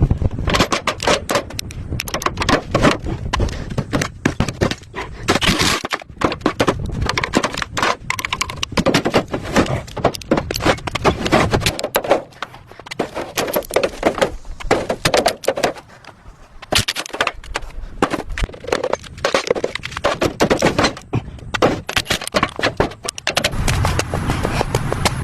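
Rapid, uneven scraping and knocking, with many sharp clicks, dropping back for a moment about twelve seconds in and again about sixteen seconds in.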